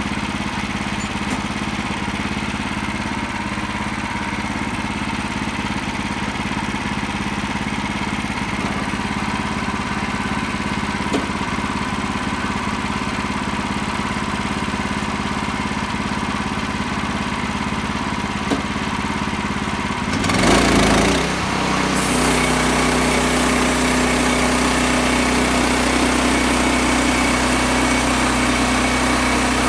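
Sawmill's engine running steadily. About two-thirds of the way through there is a brief rush of noise, after which the engine settles at a higher pitch and runs a little louder.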